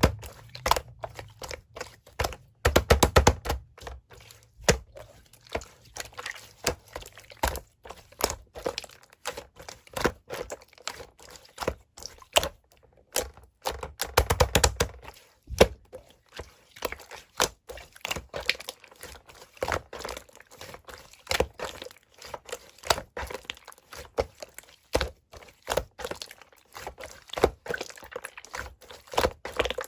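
Hands squeezing, pressing and poking slime, giving a dense, irregular run of sticky clicks, pops and crackles, with louder bursts about three seconds in and again around the middle.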